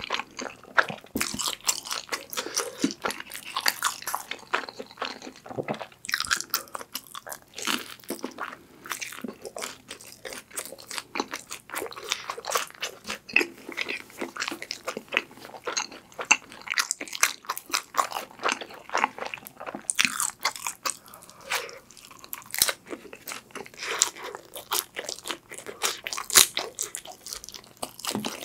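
Close-miked eating: biting and chewing a crispy fried sweet potato cheese stick, with a constant stream of irregular crunches and crackles from the fried wrapper.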